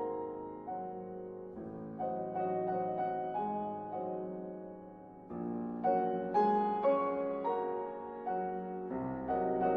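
Solo piano music: a slow, gentle piece of chords and melody notes that each ring and fade, growing louder about halfway through.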